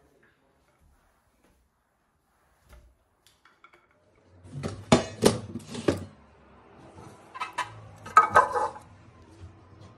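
Kitchenware clattering: two bursts of clanks and knocks of dishes or utensils being handled, about five and eight seconds in, over a low steady hum that starts about four seconds in.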